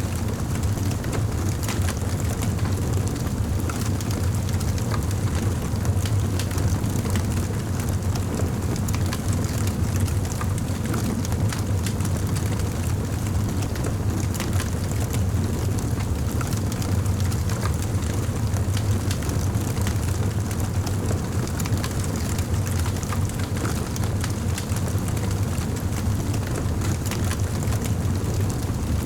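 Wood fire in a fireplace crackling, many small sharp pops and snaps over a steady low rumble of the flames.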